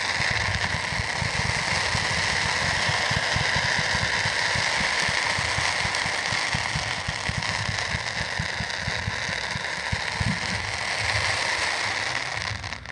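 A fireworks fan of sparkling comet trails firing continuously with a steady loud hiss and dense crackle for about thirteen seconds, then cutting off suddenly near the end.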